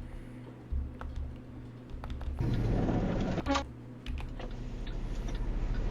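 Typing on a computer keyboard: scattered key clicks over a low steady hum, with a louder burst of noise lasting about a second, starting about two and a half seconds in.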